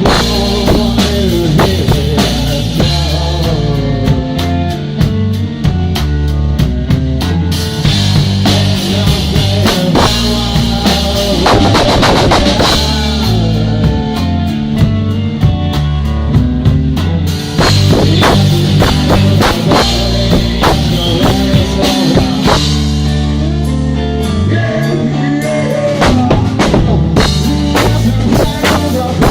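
Rock music with a drum kit keeping a steady beat over bass and other instruments.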